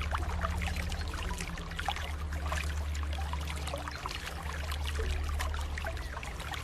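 Continuous trickling, splashing water ambience over soft, low, sustained music tones. The tones change note about four seconds in.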